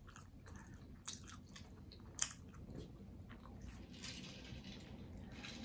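Close-miked chewing: a person's mouth working food, with faint wet clicks and smacks, the sharpest about two seconds in.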